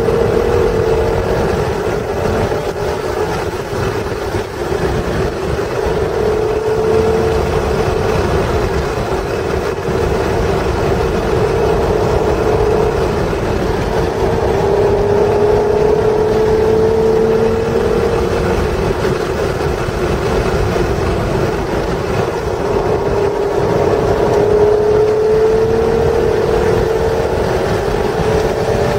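A 1996 Acura NSX's stock 3.0-litre V6 is driven hard at track pace. Its note climbs in pitch again and again as it accelerates, then drops back between, over steady road and wind noise inside the cabin.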